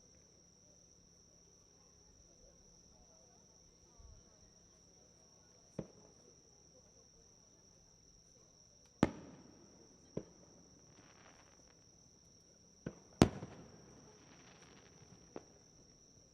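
Aerial fireworks bursting overhead: six sharp bangs at uneven intervals. The two loudest are each followed by a few seconds of crackling fizz. Behind them runs a steady, high insect chirring.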